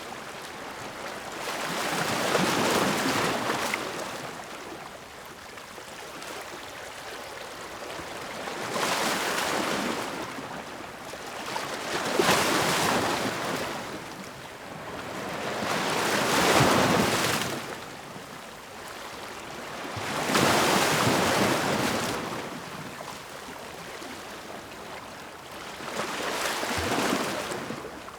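Ocean waves breaking on the shore, about six of them, each a rush of surf that swells and fades over a couple of seconds, every four to six seconds, over a steady lower wash.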